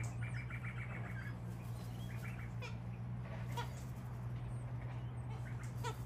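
Birds calling softly: short runs of rapid chattering notes, about ten a second, in the first second or so and again briefly around two seconds in, then a few scattered short calls, over a steady low hum.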